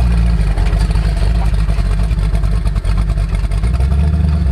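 Twin-turbocharged 440 big-block V8 of a rat rod running: a loud, steady, low engine sound.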